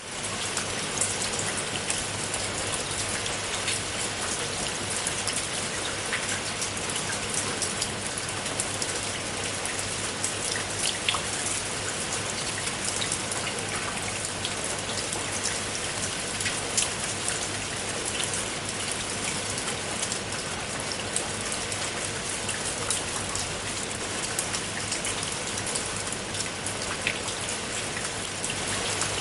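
Steady rain falling on a tiled roof, a dense even hiss of rain with many separate drops ticking sharply on the tiles.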